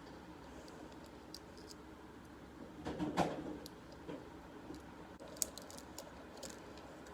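Faint scratching and light clicks of a pine cone being handled as fishing line is threaded between its scales, with a louder rustle about three seconds in.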